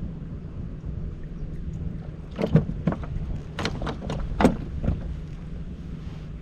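A steady low hum with a cluster of sharp knocks and taps about halfway through, like things being handled or bumped against a hull.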